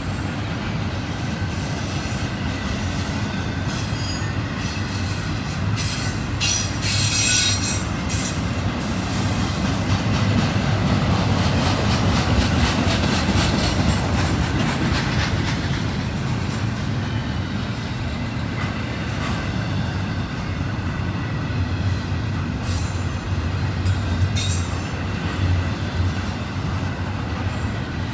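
Intermodal freight train of double-stack container well cars rolling past: steady rumble of steel wheels on the rails, with short high-pitched wheel squeals about seven seconds in and again near the end.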